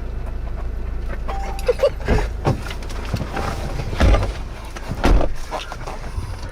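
Inside a vehicle cabin: a steady low rumble with a series of heavy thumps and knocks, the loudest about four and five seconds in.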